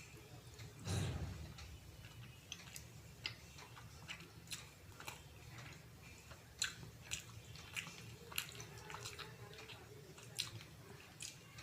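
Close-up wet chewing and mouth smacking while eating syrup-soaked rasgulla. There is a louder bite or slurp about a second in, then a run of short, irregular smacking clicks.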